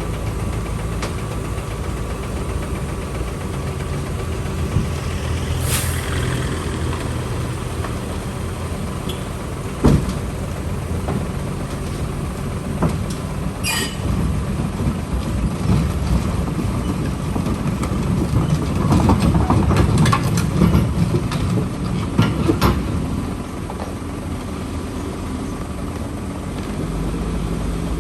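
Diesel engine of heavy earthmoving machinery running steadily, with a few sharp metallic clanks and a louder, busier stretch about two-thirds of the way through.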